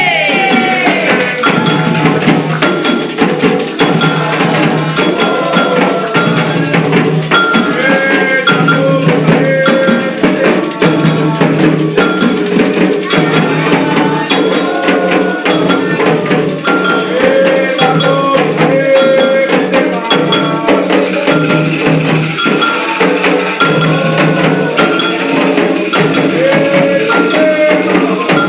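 Songs for the orixás, a sung melody over steady hand percussion with rattling and bell-like strikes.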